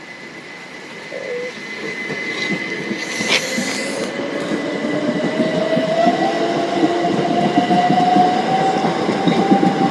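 Class 455 electric multiple unit pulling away, its motor whine rising steadily in pitch as the train gathers speed and the sound grows louder, over a steady high-pitched tone.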